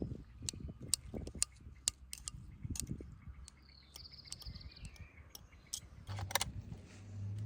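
Scattered light clicks and taps, with a bird calling briefly about four seconds in and a low steady hum starting near the end.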